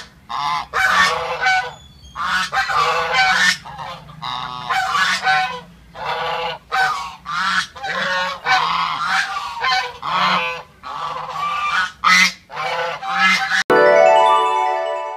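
Geese honking, a quick series of loud repeated honks. Near the end it cuts abruptly to a steadier, more drawn-out call.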